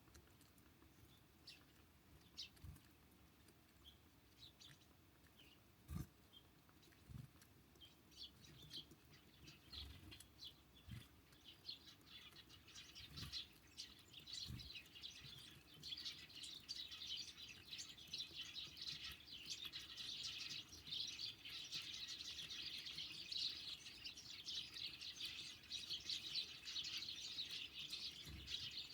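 Small songbirds chirping, with scattered single calls at first that build about halfway through into dense, continuous high twittering. A few soft low knocks, and one sharper click about six seconds in.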